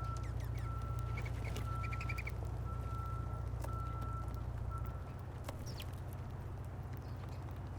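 A vehicle's reversing alarm beeping at an even pace over a low engine rumble; the beeping stops about four seconds in and the rumble drops away about a second later. A few quick bird chirps come about one and two seconds in.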